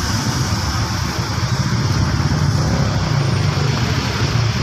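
Motorcycle engine idling close by, steady and loud.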